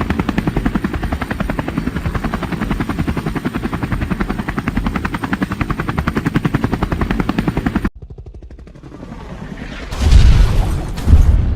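Helicopter rotor blades chopping in a fast, steady beat that cuts off abruptly about eight seconds in. Near the end come two loud blasts, like gunfire or explosions.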